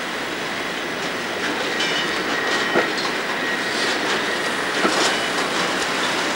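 Freight wagons of a work train, hopper wagons and a van, rolling slowly past on the track. There is a steady rumble of steel wheels on rail, a few sharp clacks over the rail joints, and a faint thin high squeal that comes in about two seconds in.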